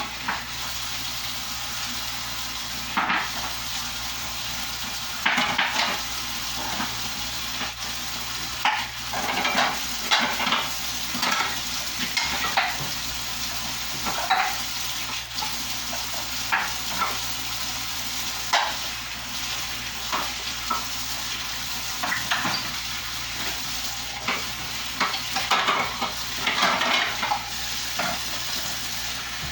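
Dishes, pots and utensils clinking and knocking every second or so, over a steady hiss.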